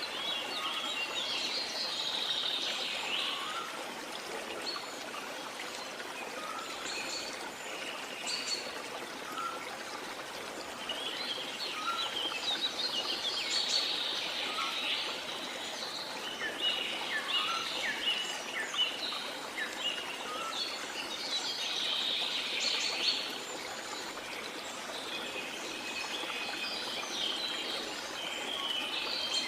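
Small songbirds chirping and twittering in repeated bursts of quick high calls over a steady wash of sea water.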